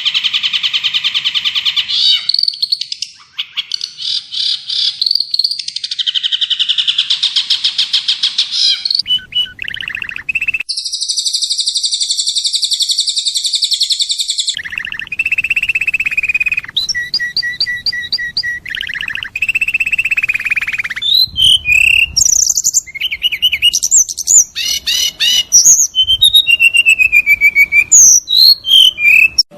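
Recorded songbird song played as a masteran tape for training a caged bird, changing phrase by phrase: long buzzy trills, then a high steady trill, then separate chirps and quick sweeping whistled notes near the end.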